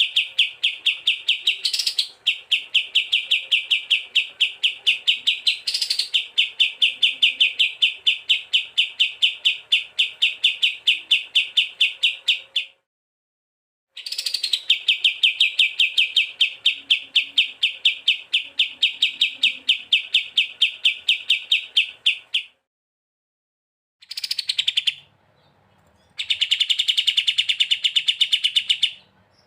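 A songbird repeating one sharp chirping note many times a second in long, even series, from an edited bird-song training recording (masteran). The series stops dead and restarts several times, with a brief higher rising note now and then.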